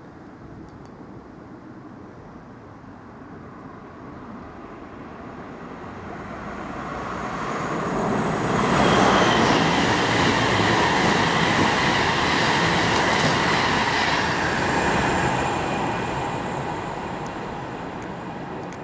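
Freight train passing at speed: it builds up over several seconds as it approaches, is loud for about six seconds as it goes by, then fades away.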